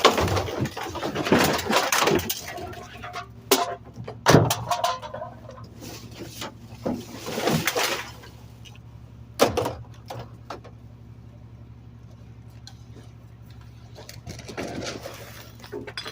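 Garbage truck engine running with a steady low hum, under bouts of clattering and banging and a sharp knock about four seconds in.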